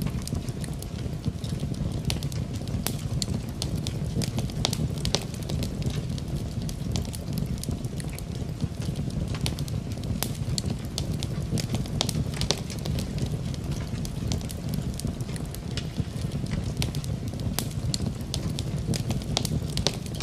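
Wood fire in a fireplace crackling, with frequent irregular sharp pops and snaps over a steady low rush.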